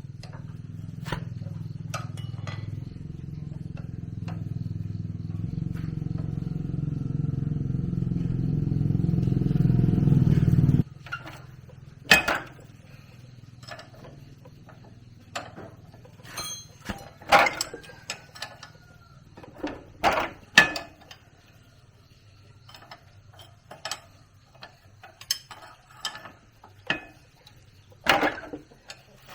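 A small engine running steadily, growing gradually louder, then cutting off suddenly about eleven seconds in. After it come scattered sharp clinks and knocks.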